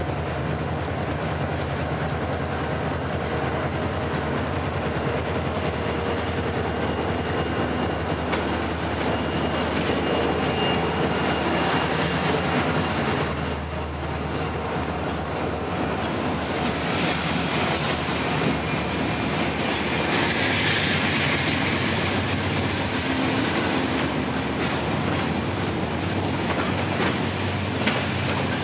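Freight train rolling past, steel wheels running on the rails with a steady rumble and thin, high wheel squeals that come and go.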